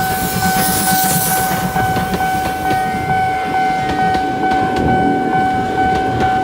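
Train sound effect: a steady, held horn-like tone over the rumble of a moving train, with sharp clicks coming in about halfway through. It is laid over the washing of a toy Thomas train.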